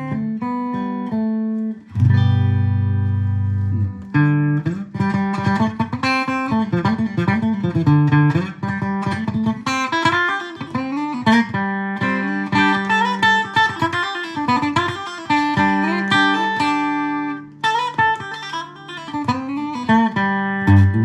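Electric guitar played through a Fender Mustang GTX100 amp set to its acoustic guitar simulator preset. A few held chords come first, then a run of picked single notes with bends and vibrato. The tone does not really sound acoustic.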